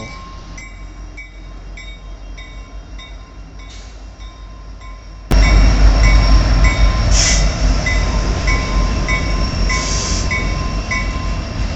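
Freight train at a railroad grade crossing, with the crossing's warning bell dinging steadily, a little under twice a second. About five seconds in, a loud low rumble comes in suddenly under the bell.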